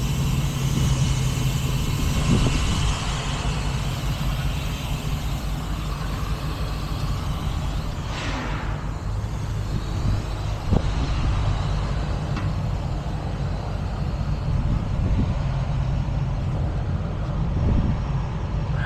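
Heavy truck engine idling steadily, with a brief falling whoosh about eight seconds in and a sharp click near eleven seconds.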